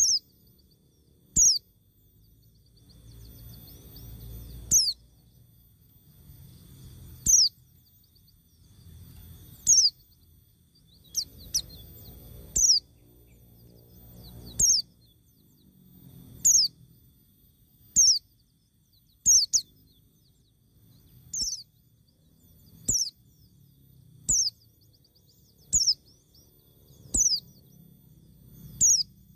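A bird calling over and over: a short, high note falling in pitch, repeated every second or two, with a faint low rumble between calls.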